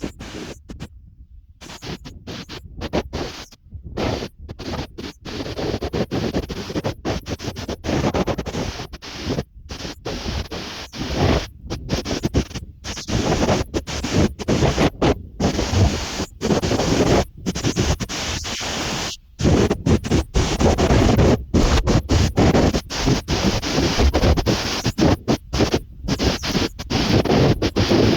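Storm wind buffeting the microphone on a seashore, a loud rough rush that keeps cutting out for split seconds and swells louder in the second half.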